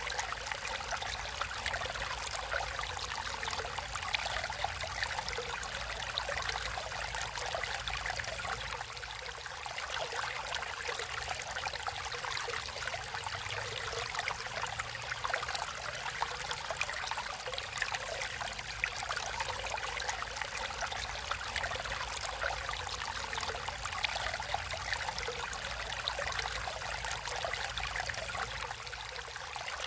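Natural stream of water flowing and trickling steadily, with a dense, even babble.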